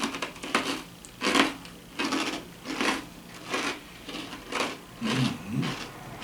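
Someone chewing crisp toasted cracker rounds, close to the microphone: a run of short crunches, a bit over one a second.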